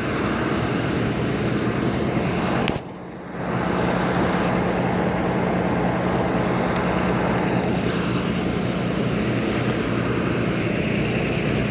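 Steady drone of idling vehicle engines, likely the school buses, with a low steady hum running under it; the sound drops away briefly about three seconds in, then returns.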